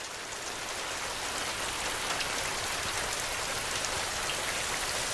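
Steady rain falling, an even hiss with scattered drop ticks, coming up in level during the first second.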